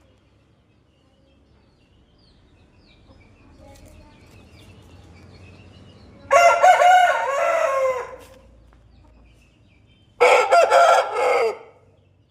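A rooster crowing twice, each crow lasting about one and a half seconds, with a pause of about two seconds between them. Faint bird chirps come before the first crow.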